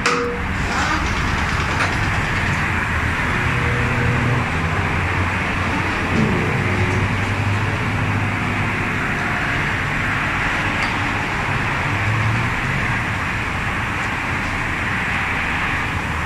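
Steady motor-vehicle noise: a low engine hum that wavers in pitch over a constant hiss, with a brief falling tone about six seconds in.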